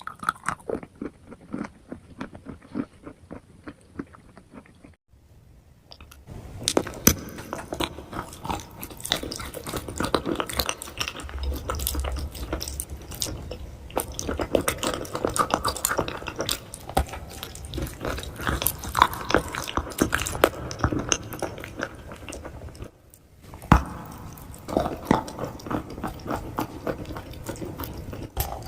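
Close-miked biting and crunching of edible chalk and clay: a dense run of crisp crunches and chewing clicks. It breaks off briefly about five seconds in and again near twenty-three seconds.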